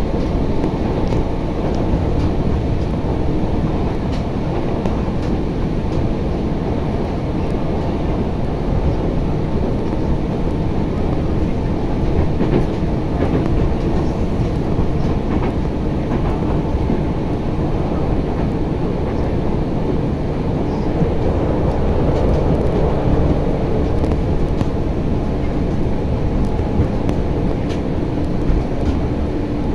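Steady running noise of a KRL Commuter Line electric train in motion, heard from inside the carriage: a continuous low rumble of wheels on track with faint scattered clicks.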